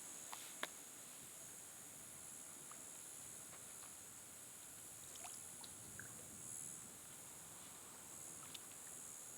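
Faint night-time ambience: a steady high hiss with a few light clicks and taps, the sharpest about half a second in, and a soft low swell near the middle.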